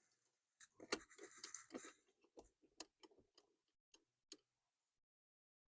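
Steering column parts being handled and fitted back together: a short spell of scraping and rattling about a second in, then scattered light clicks and knocks.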